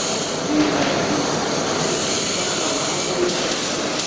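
Electric arc welding: a steady, dense crackle and hiss from the welding arc as a bead is laid.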